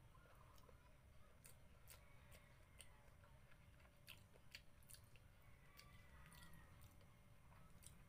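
Faint chewing, with soft mouth clicks and smacks scattered through it.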